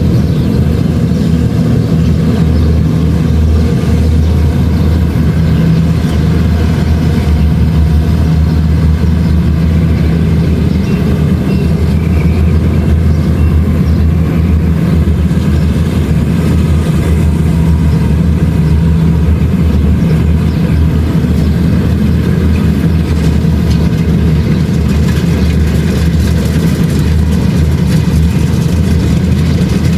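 Kubota DC-70 Plus rice combine harvester running steadily, a constant low engine drone with no change in speed.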